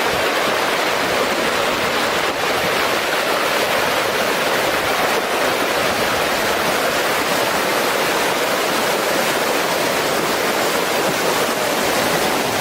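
Mud flow rushing: a steady, unbroken rush of muddy water and debris.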